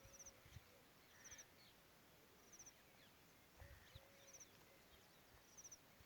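Faint birds calling: a short, high, rapid trill of four or five notes repeats about every second and a half, among scattered chirps and a short held whistle.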